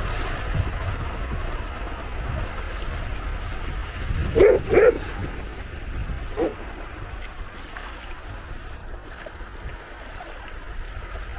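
Gentle sea waves washing on the shore with a steady wash and wind noise. About four and a half seconds in, an animal gives two short calls in quick succession, and a fainter third call follows about two seconds later.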